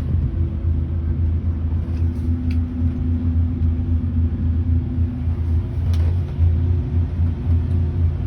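Steady low drone of a vehicle engine running at an even pace, heard from inside the vehicle, with a couple of faint clicks.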